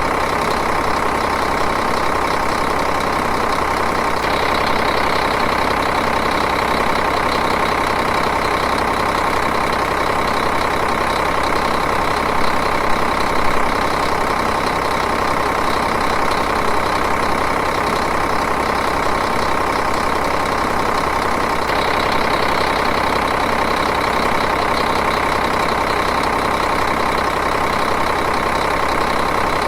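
Diesel engine idling steadily, an even, unchanging running sound.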